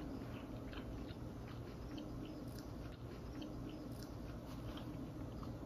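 Close chewing and wet mouth clicks of people eating fried food, with light taps of a plastic fork in a foam take-out container, over a steady low hum.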